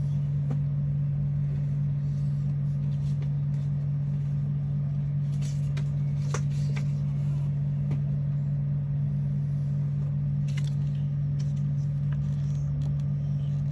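A steady low hum, with a few faint light clicks scattered through it.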